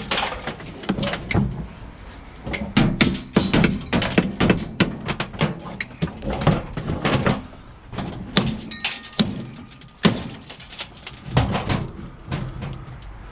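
Irregular metal knocks and clanks from a scrapped washing machine being worked on to get its motor out.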